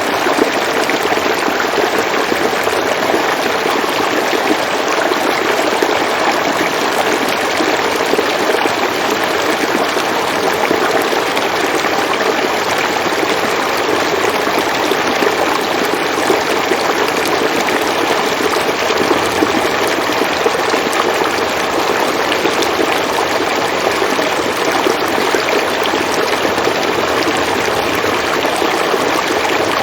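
River water flowing steadily over rocks, an even rushing babble with no breaks.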